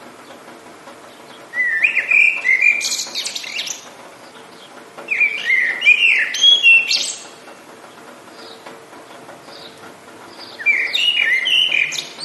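A songbird singing three short warbling phrases, each about two seconds long and a few seconds apart, over a faint steady background hiss.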